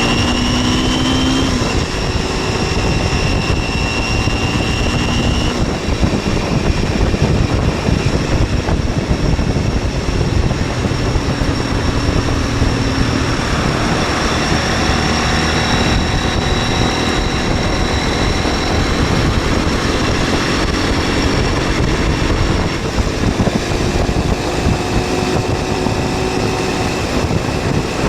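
MZ 125 SX's single-cylinder four-stroke engine running under way, heard onboard over heavy wind rush on the microphone. The engine note climbs and breaks off about a second and a half in, and again about five seconds in, as the bike shifts gears.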